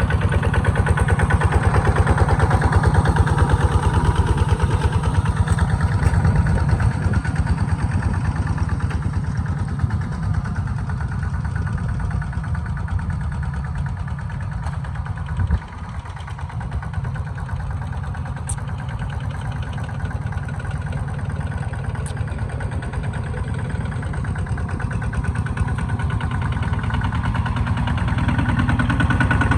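Kubota tractor's diesel engine running steadily, as when working a plow through a muddy field, getting louder near the end after dipping briefly about halfway through.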